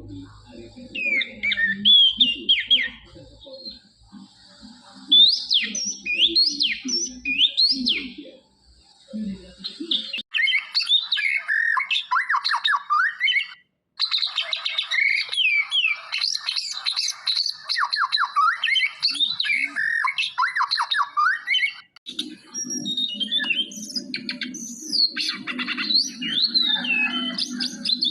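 Pet songbird singing a varied, continuous song of rapid whistled up-and-down glides mixed with harsher squawky notes.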